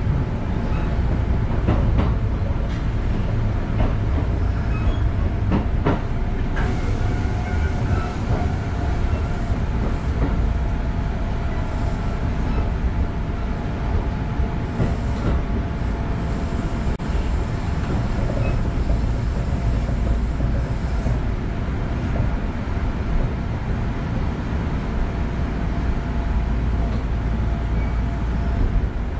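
Kintetsu Ikoma Line electric commuter train heard from the driver's cab: a steady rumble of wheels running on the rails, with a few short clicks as the wheels pass over rail joints.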